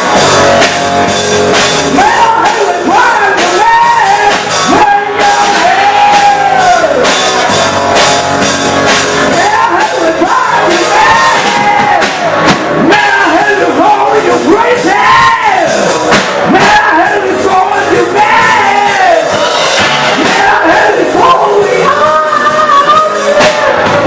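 Loud rock music: a singer holding and bending long melodic notes over a full band with drums and guitar, playing without a break.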